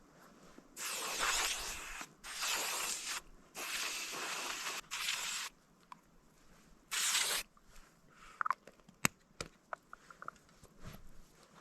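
Aerosol spray, most likely mosquito repellent, hissed out in five short bursts, each starting and stopping abruptly, followed by a few small clicks and taps.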